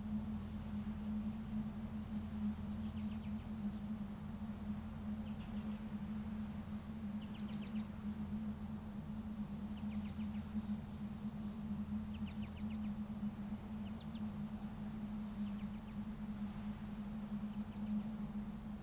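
A small bird repeating short chirps and trills, about one every two seconds, over a steady low hum.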